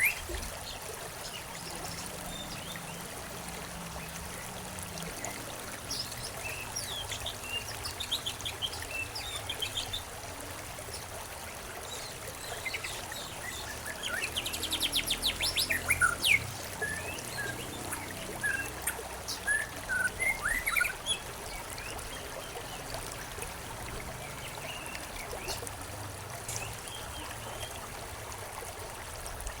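Small songbirds chirping and whistling over the steady trickle of a stream, with a fast run of repeated notes near the middle. The birdsong thins out in the last third, leaving mostly the running water.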